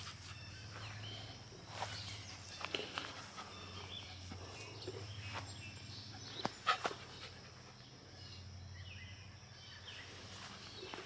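Footsteps on the ground with a dog moving about close by: scattered knocks and rustles, the loudest about two-thirds of the way through, over a steady low hum.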